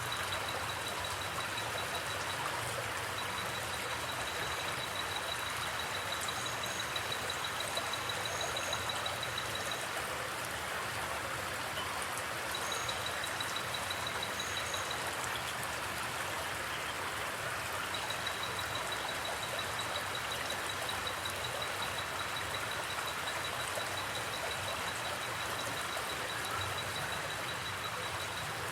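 River or creek water flowing steadily: an even rush with no breaks. Over it, a high, fast-pulsing trill comes and goes in long stretches, with a few short, higher chirps.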